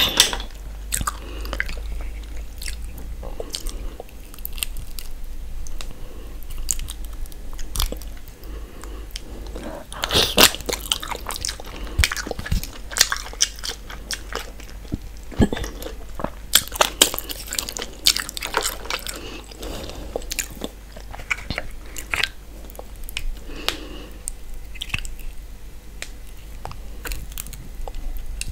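Close-miked ASMR eating sounds: chewing and wet mouth smacks on a saucy seafood boil of mussels, corn, egg and potato. Irregular sharp clicks and smacks, densest about a third of the way through and again just past halfway.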